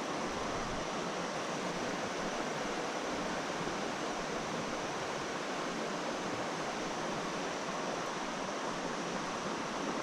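Steady rushing of flowing creek water, an even hiss that does not change.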